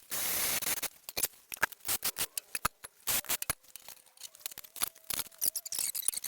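Irregular clicking and clattering of small metal tools being handled, with a short rushing noise at the start.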